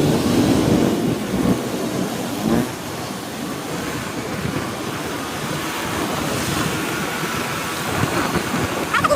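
Wind rushing over the microphone of a moving motorcycle, with a low rumble of road and engine noise underneath; it is loudest in the first second or two.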